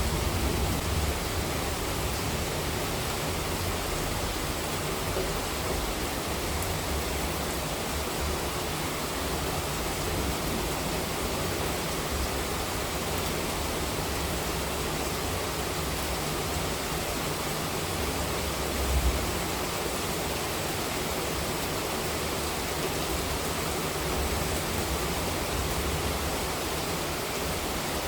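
Monsoon rain falling steadily: an even hiss with a low, uneven rumble underneath. A brief low thump comes about two-thirds of the way in.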